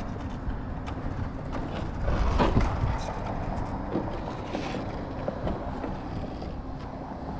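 A vehicle passing by, loudest about two and a half seconds in with a falling pitch, over a steady outdoor background with a low hum.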